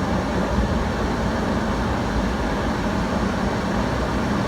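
Air conditioner running loudly: a steady rush of blown air with a faint low hum under it.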